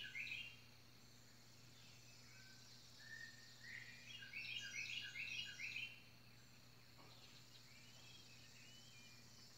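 A songbird singing faintly: two phrases of quick repeated chirping notes, one ending just after the start and another from about three and a half to six seconds in, with a few softer calls near the end, over a faint steady hum.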